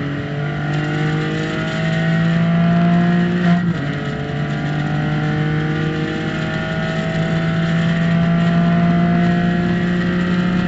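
Porsche race car's flat-six engine heard from inside the cockpit, accelerating at full throttle. The engine note climbs, drops at an upshift about a third of the way in, then climbs again.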